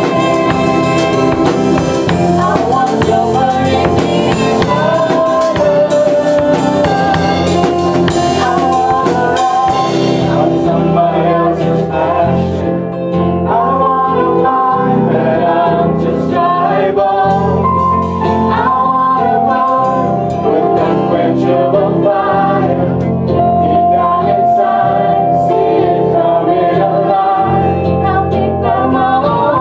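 Gospel-style worship song: singing over a band with drums. The crisp drum and cymbal hits thin out about ten seconds in, leaving the singing and the lower instruments.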